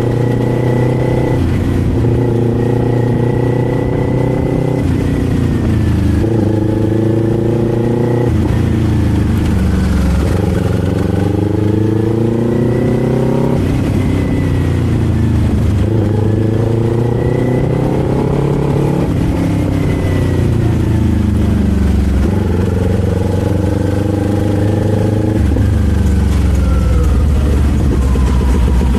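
Kawasaki Z400 parallel-twin motorcycle engine under way, its note climbing and dropping again several times as the bike accelerates and changes gear.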